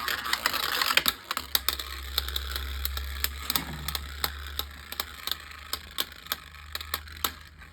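Beyblade Micros spinning tops clashing in a plastic stadium: a rapid run of sharp plastic clicks and knocks, busiest in the first few seconds and thinning toward the end.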